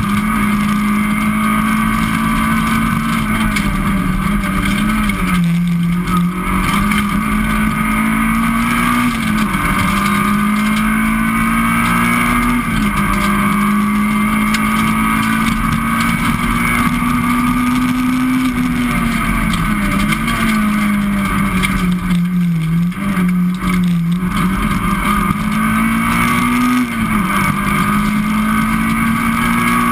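In-car sound of a Citroën Saxo VTS Group N rally car driven at stage pace. The engine runs hard, its note climbing slowly under acceleration and dropping sharply about five times, over constant road and cabin noise.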